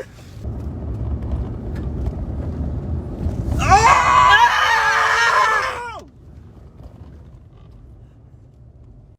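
A person's high-pitched scream, held for about two seconds and dropping in pitch as it cuts off, over a low steady rumble.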